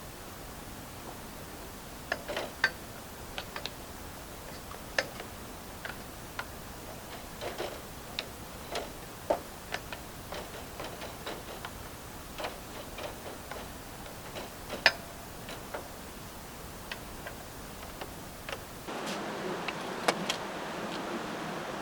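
Wood fire crackling, with sharp irregular pops and snaps at uneven intervals. A steady hiss comes in near the end under further pops.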